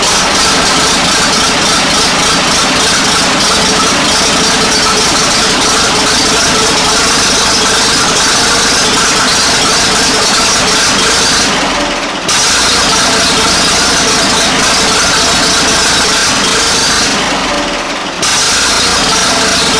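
1940 Fordson N tractor's four-cylinder side-valve engine running steadily. Its sound drops away briefly twice and comes straight back.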